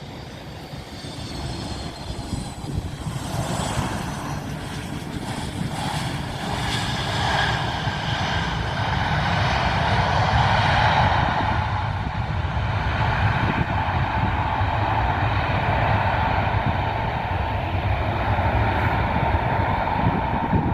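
Aircraft engines of a passing plane, growing louder over about ten seconds, with a high whine falling in pitch in the first few seconds. The sound then holds steady and loud, with a deep rumble underneath.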